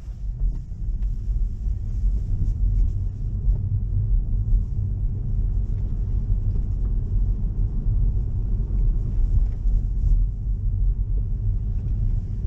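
Low, steady road rumble heard inside a Tesla's cabin as it drives on a wet road, with no engine note; it grows louder about half a second in and then holds.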